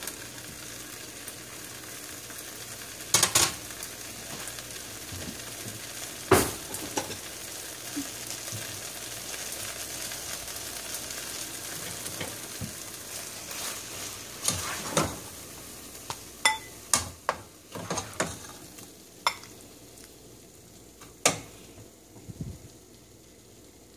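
Chilli chicken sizzling in a pan while a slotted spatula stirs and turns it, knocking and scraping against the pan every few seconds. The sizzle dies down over the last several seconds as the dish finishes cooking.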